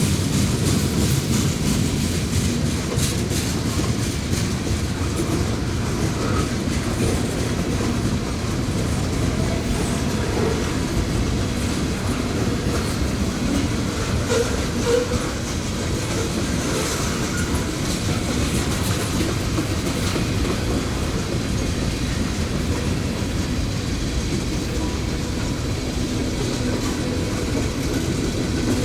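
Train cars rolling past at close range, wheels clicking over rail joints in a steady, continuous rumble.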